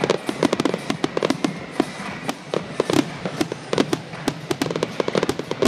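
Fireworks finale: a rapid barrage of aerial shell bursts, several sharp bangs a second, overlapping and echoing.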